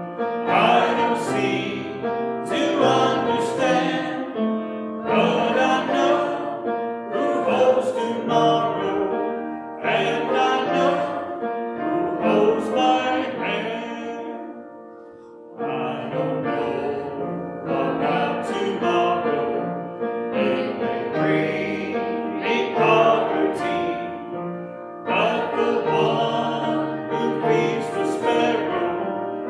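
Church congregation singing a hymn with piano accompaniment, phrase after phrase, with a short pause between lines about halfway through.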